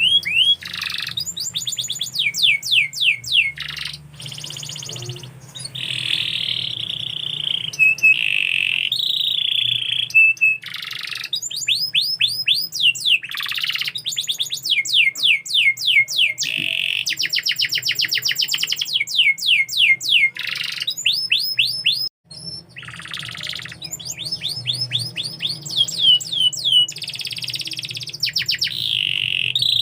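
Domestic canary singing a long continuous song: runs of rapid, quickly repeated downward-sweeping chirps alternating with buzzy rolling trills and warbled phrases. There is a brief break about three-quarters of the way through, and a faint low hum sits underneath.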